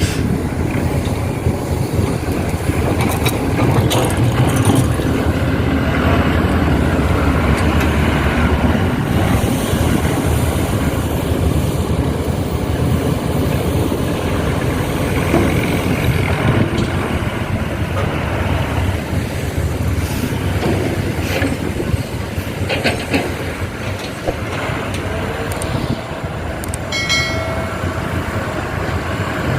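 Heavy machinery at work: diesel engines of an excavator and dump trucks running steadily, with scattered knocks and clanks. A brief high tone sounds near the end.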